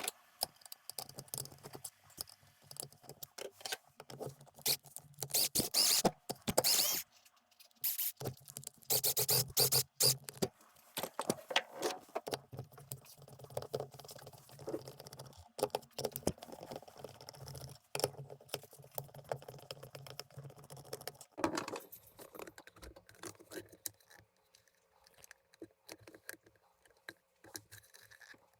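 Bottom screws being unscrewed from the plastic housing of an automatic soap dispenser: clicks, scrapes and rattles of plastic and small metal parts being handled, with a low hum coming and going in stretches.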